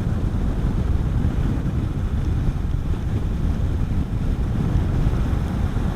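Steady wind noise buffeting a helmet-mounted microphone on a moving motorcycle, a low, even rumble with the bike running underneath.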